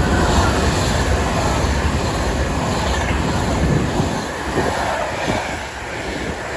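Class 390 Pendolino electric train running through the station, a loud, steady rumble of wheels on rail that eases slightly in the second half.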